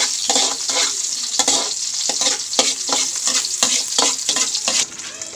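Onions and garlic sizzling in hot oil in a metal wok, with a metal spatula scraping and knocking against the pan in quick repeated stirring strokes. The sizzle and scraping turn quieter near the end.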